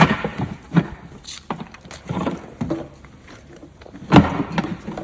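Irregular knocks and clatter of sheep moving through a handling race: hooves and bodies striking its panels and gates, loudest about four seconds in.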